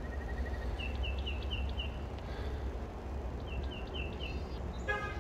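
Outdoor ambience: a songbird gives a phrase of about five quick falling chirps, twice, over a steady low rumble, with a brief pitched call near the end.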